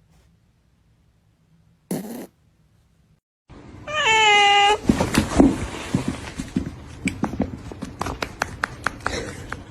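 A cat meowing: one short drawn-out call, followed by a run of irregular clicks and knocks.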